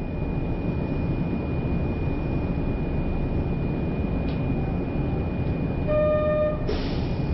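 Kyoto Municipal Subway Karasuma Line train running, a steady low rumble with a thin high whine held throughout. About six seconds in there is a short pitched beep lasting about half a second, and near the end the running noise rises.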